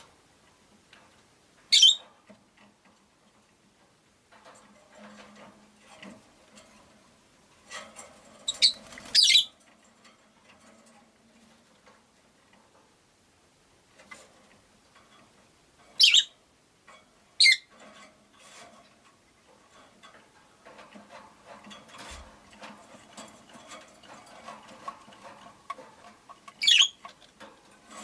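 Rosy-faced lovebirds (Agapornis roseicollis) giving short, high-pitched single chirps, about six spread through, two of them in quick succession near the middle. Between the calls are quieter clicks and rustling.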